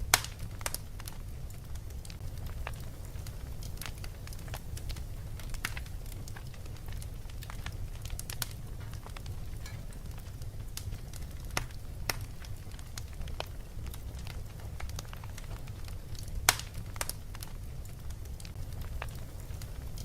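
Fireplace fire crackling: irregular sharp pops and snaps over a steady low rumble, with two louder pops, one right at the start and one about sixteen seconds in.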